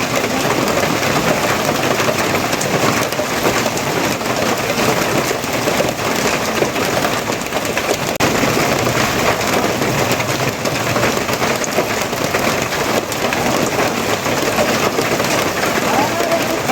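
Heavy rain falling steadily, a dense, even patter with no breaks.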